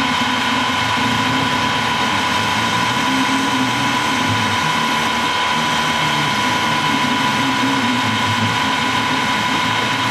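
Harrison T280 lathe running steadily, with a constant whine from its drive over a low rumble.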